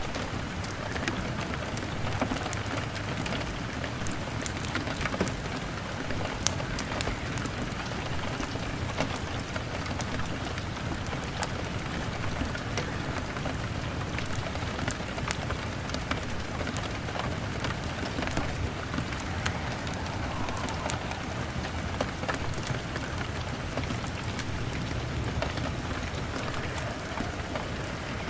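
Heavy rain beating on a window, blended with a crackling log fire: a steady rain hiss with many sharp ticks and pops scattered throughout.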